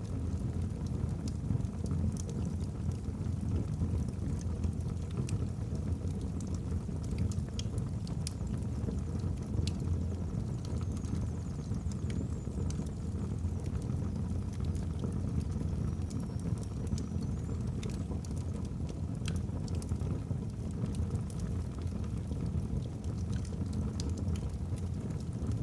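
Wood fire burning in a fireplace: a steady low rumble of flames with scattered crackles and pops from the logs. Twice near the middle there is a faint, high, wavering whistle.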